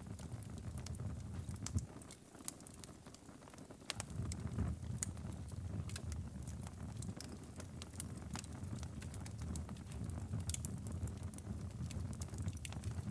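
Wood fire crackling, with irregular sharp pops scattered throughout, over a steady low rumble that thins out for a moment about two seconds in.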